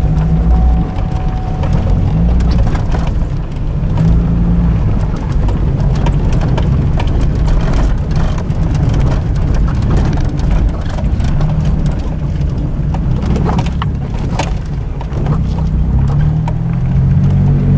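Minivan engine running as the van is driven, under heavy low rumbling noise with scattered clicks and knocks. Near the end the engine note rises.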